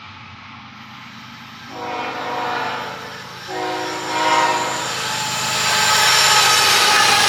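Locomotive horn sounding two blasts, the first about two seconds in, the second just after it, over a low rumble. The train's noise then builds and becomes the loudest sound as it comes close.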